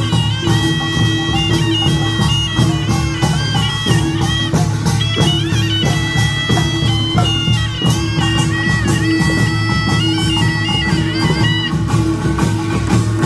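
Korean nongak farmers' band music: a taepyeongso shawm plays a reedy, ornamented melody over dense, driving beats of small gongs and drums. The shawm stops about two seconds before the end while the percussion carries on.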